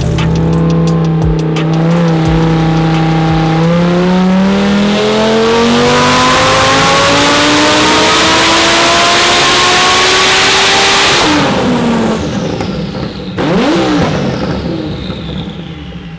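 Twin-turbo Lamborghini Huracan V10 holding a steady engine note, then pulling hard at full throttle with the pitch rising for about seven seconds. It lets off abruptly, with a sharp pop a couple of seconds later and falling engine tones as it winds down.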